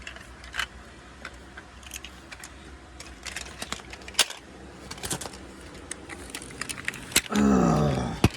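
Light clicks and rattles inside a car. Near the end comes a loud tone about a second long that falls in pitch.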